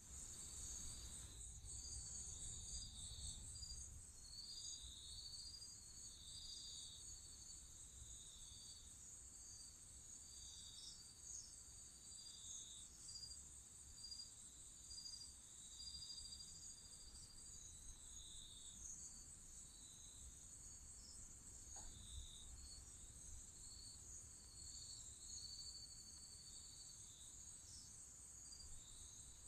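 Faint night chorus of crickets and other insects: a steady high-pitched trill with shorter chirps repeating over it.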